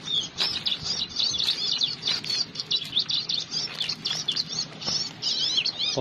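Prenjak (prinia) calls: a dense run of rapid, high-pitched chirps and short sweeping notes, several a second, going on without a break.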